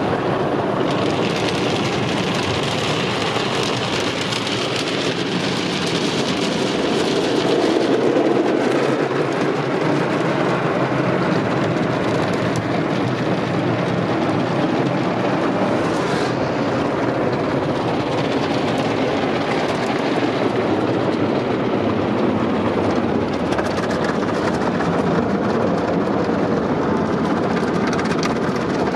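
Tunnel car wash heard from inside the car: Sonny's wash equipment spraying water and scrubbing the body with brushes, a steady dense wash of noise with a higher hiss in roughly the first eight seconds.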